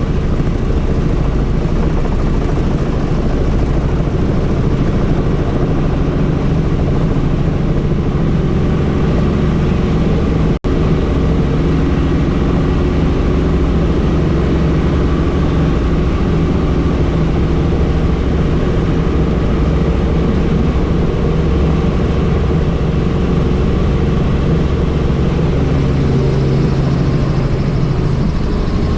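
Helicopter running steadily in flight, its rotor and engine drone heard from inside the aircraft, with a split-second break in the sound about ten seconds in.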